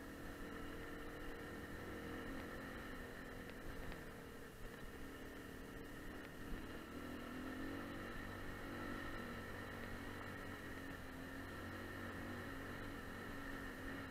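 AKT 250 motorcycle engine running at a steady, moderate speed while riding a rough stony dirt track, its pitch wavering a little partway through, with a few small knocks.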